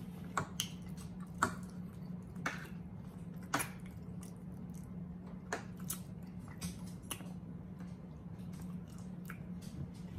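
Close-miked chewing and wet mouth sounds of two people eating soft food, with scattered short clicks of forks and a knife against plates. A steady low hum runs underneath.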